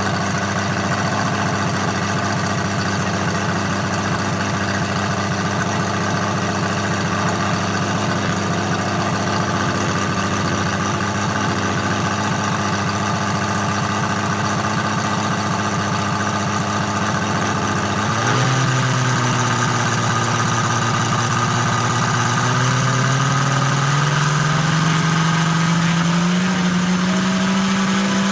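Moki 257, a 250cc seven-cylinder radial gasoline engine, idling steadily while it warms up after a cold start. About two-thirds of the way through the throttle is opened and the revs climb gradually.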